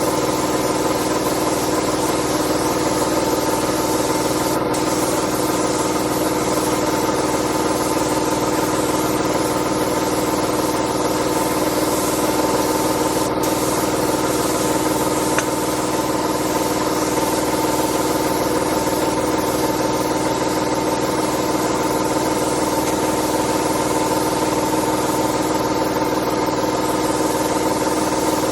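A machine motor running at a steady, unchanging speed.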